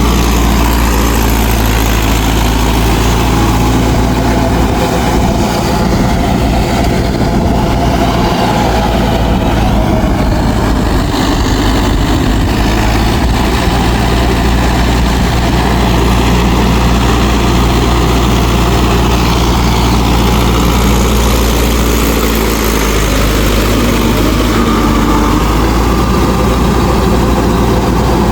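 Mahindra 4WD DI tractor's direct-injection diesel engine running steadily with a deep, even drone.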